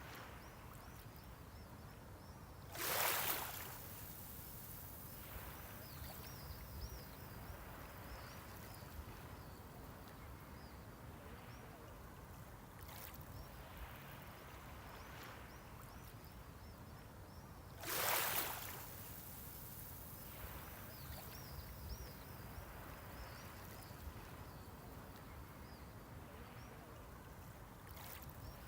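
Small sea waves washing onto the shore over a steady low wash, with two louder breaks about fifteen seconds apart.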